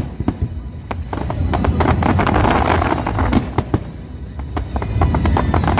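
Aerial fireworks going off, a dense run of sharp crackling pops over a steady low rumble, thickest in the middle.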